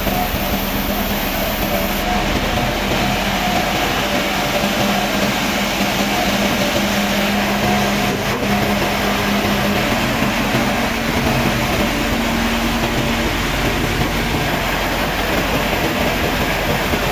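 Sawmill machinery running steadily: a constant mechanical noise with a low hum that holds the same level throughout.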